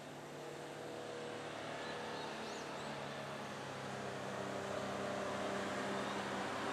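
Engine hum of an approaching road vehicle, growing steadily louder.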